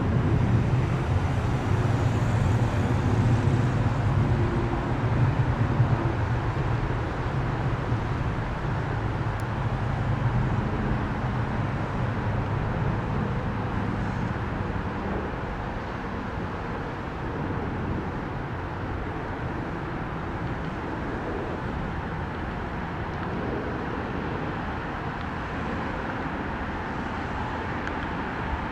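Jet airliner climbing out after takeoff, its engine roar loudest in the first few seconds and fading steadily as it moves away.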